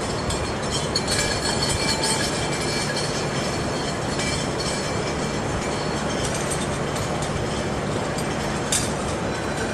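The Royal Train arriving: its Class 67 diesel locomotive and coaches rolling steadily along the rails, with faint wheel squeal and a few sharp clicks from the wheels over the track, about a second in and again near the end.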